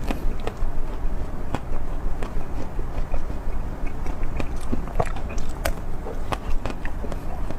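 Close-miked ASMR eating: a person biting and chewing food, with irregular sharp wet mouth clicks.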